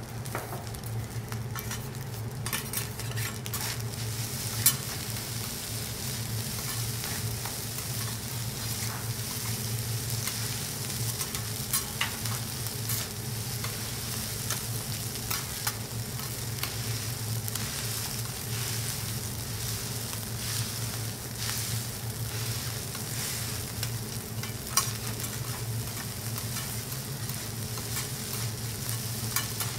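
Food frying with a steady sizzle on a teppanyaki griddle, broken by scattered sharp taps and clicks, the loudest about five seconds in. A steady low hum sits underneath.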